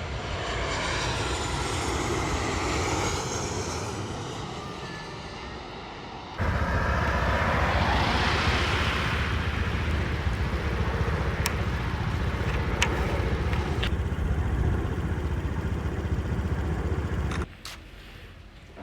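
Jet airliner flying low overhead: its roar swells and fades with sweeping, whooshing changes in tone. After an abrupt cut comes a louder, deeper rumble that rises to a peak and holds, with a few sharp clicks. It drops away suddenly near the end.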